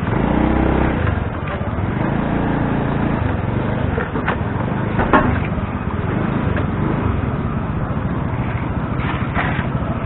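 Busy street traffic: motor vehicle engines running and passing in a steady traffic din, with a couple of short sharp clicks about four and five seconds in.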